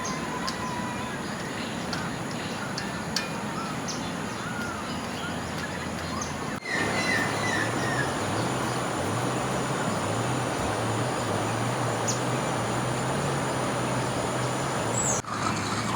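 Steady rush of flowing river water and rain, with small birds chirping now and then. The sound breaks off abruptly twice, and a faint low hum comes in after the first break.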